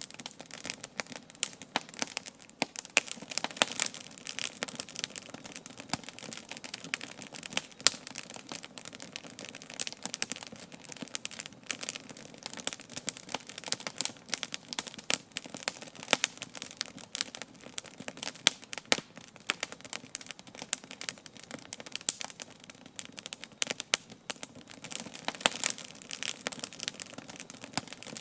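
Wood campfire burning: dense, irregular crackling and popping of burning logs over a soft hiss of flame.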